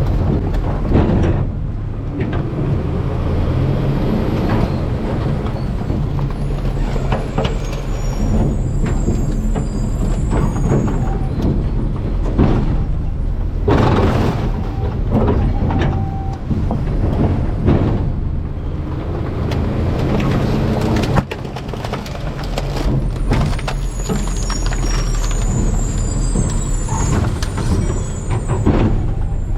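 Garbage truck running steadily with its hydraulics working, while trash in the hopper is crushed with repeated knocks, crunches and pops. Thin high whines come and go twice.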